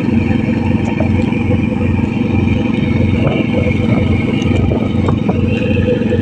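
A cantrang fishing boat's inboard diesel engine running steadily with a low, even throb.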